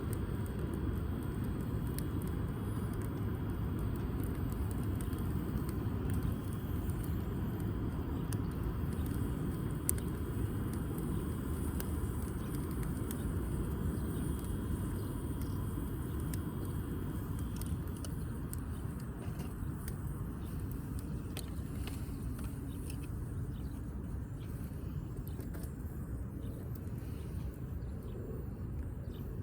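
Low steady rumble with scattered faint crackles and pops, typical of a wood fire burning in a firewood grill stand.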